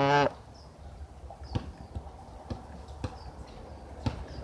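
A pet goose's bill pecking and tapping at diced cucumber on a hard surface, a few sharp irregular knocks spaced about half a second to a second apart. A short pitched vocal sound comes at the very start.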